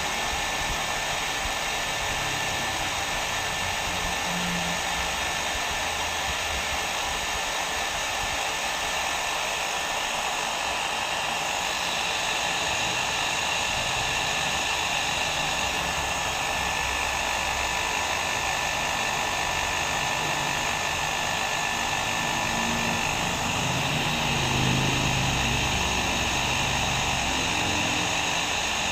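Hair dryer blowing steadily: an even rushing hiss of air with a faint motor whine, used as white noise.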